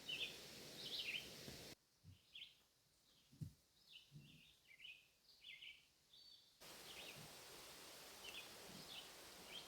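Faint chirping of small birds, short chirps repeating every second or so, over a quiet outdoor background, with a soft low knock about three and a half seconds in.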